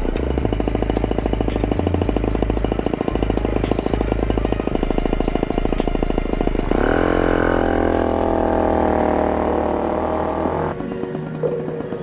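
Piaggio Ciao's single-cylinder two-stroke moped engine running through a Simonini Circuit expansion exhaust, mixed with background music. About seven seconds in, the engine note rises in pitch as it accelerates, then holds steady before cutting off abruptly near the end.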